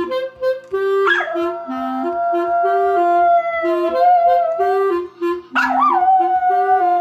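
A dog howling twice over background music with a steady beat. Each howl starts with a sharp upward swoop and then holds a long, steady note: the first lasts about four seconds, and the second begins just before the end.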